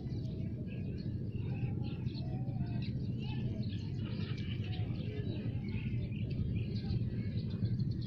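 Many birds chirping and twittering in short, overlapping calls, over a steady low rumble.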